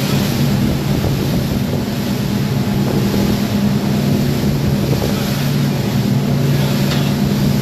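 An engine running steadily with a constant low hum, under heavy wind noise on the microphone.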